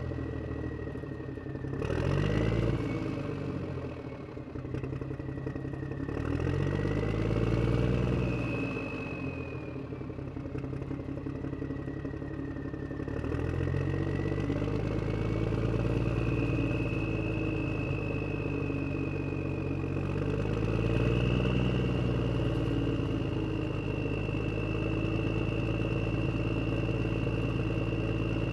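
Radio-controlled HuiNa toy wheel loader running: its small electric drive motors and gears whine, rising and falling in pitch again and again as it speeds up and slows down, with some clatter.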